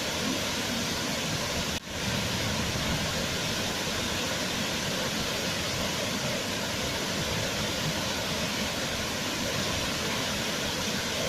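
Waterfall: a steady, even rush of falling water, with a momentary dip just under two seconds in.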